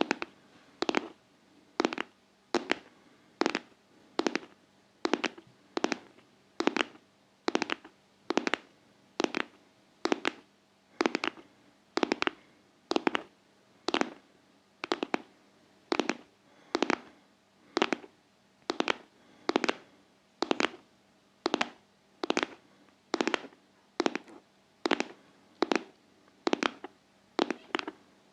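Tapping in a steady, even rhythm, a sharp tap a little more than once a second, with no pauses.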